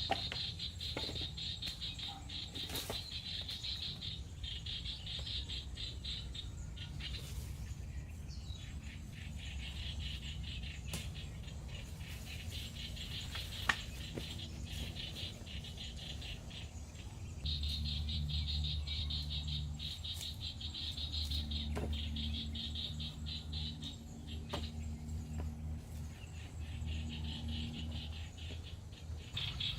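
Insects trilling in a fast, steady pulse, with a few sharp clicks. A low rumble comes up from a little past halfway.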